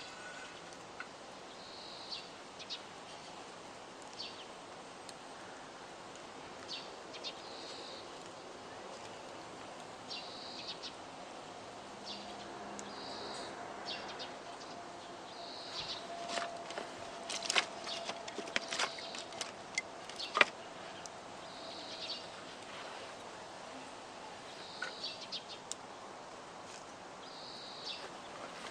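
Wood campfire crackling, with a cluster of sharp pops in the middle and the loudest single pop near the end of it. A bird repeats a short high call about every two seconds throughout.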